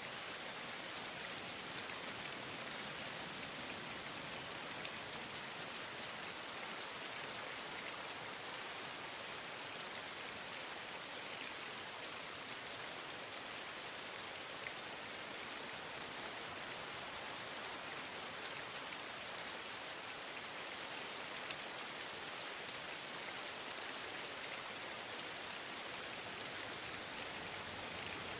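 Steady rain falling, with scattered faint taps of individual drops.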